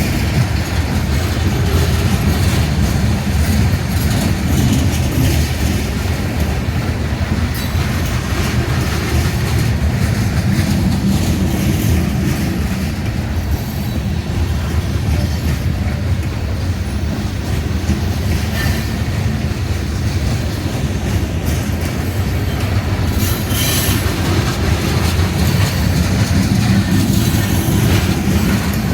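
Freight cars of a Union Pacific coal train rolling past, a steady heavy rumble with wheel clatter over the rails and some wheel squeal, and a sharper burst of noise about three-quarters of the way through.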